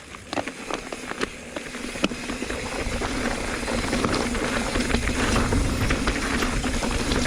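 Mountain bike rolling downhill and gathering speed: a rush of wind on the camera's microphone and tyre noise that grows steadily louder, with irregular clicks and rattles from the bike over rough ground.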